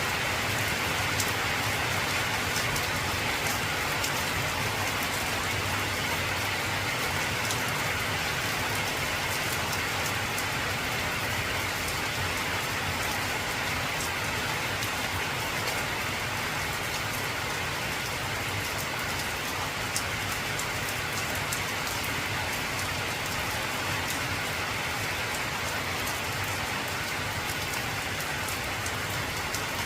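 Heavy rain falling on an old corrugated zinc (tin) roof: a steady, dense patter with sharp ticks of single drops striking the metal.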